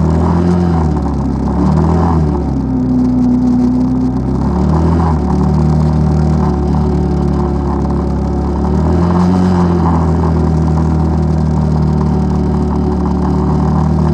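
ATV engine running under way, its pitch rising and falling a few times as the throttle changes, then holding steady.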